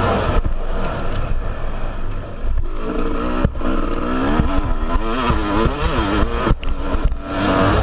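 Yamaha YZ250 two-stroke motocross engine being ridden hard, its pitch rising and falling with the throttle, cutting out briefly a few times when the throttle is shut.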